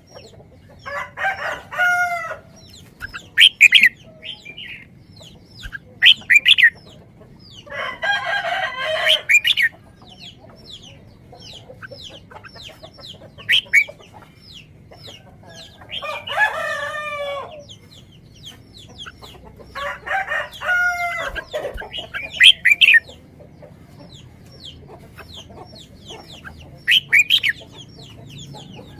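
Rooster crowing four times, each crow about a second and a half long, with short clucks and chirps from chickens in between.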